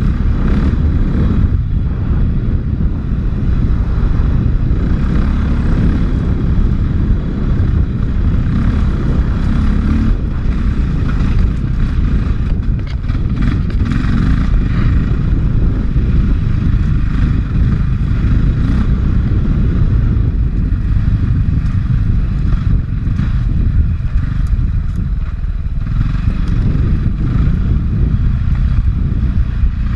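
450 cc four-stroke dirt bike engine running steadily on the trail, heard from a helmet camera, with scattered clattering knocks.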